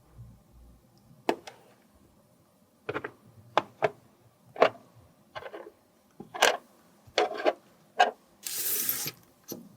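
Cosmetic containers and tools handled up close: a series of irregular sharp clicks and taps, with a short scraping rustle near the end.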